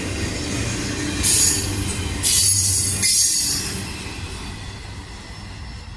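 Norfolk Southern freight train rolling past with a steady low rumble of wheels on rail. There are two loud bursts of high-pitched wheel squeal in the first half, then the sound eases off as the train moves away.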